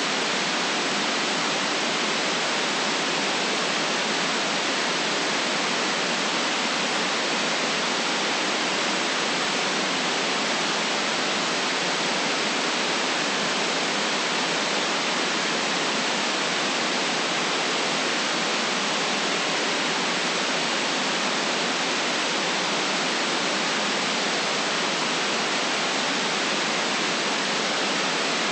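Steady electronic white-noise hiss, cut off below the lowest bass and above the highest treble, perfectly even with no changes or separate sounds.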